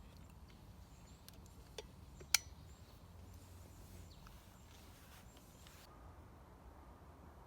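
Quiet outdoor ambience with a few sharp clicks or snaps, the loudest a little over two seconds in.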